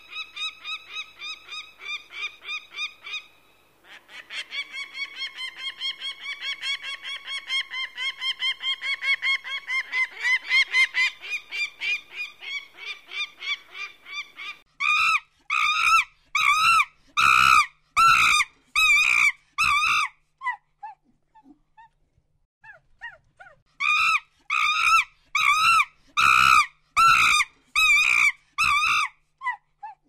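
Animal calls: a fast series of short, repeated calls, about four a second, through the first half, then two bouts of louder, longer calls, about one and a half a second apart, with a pause between them.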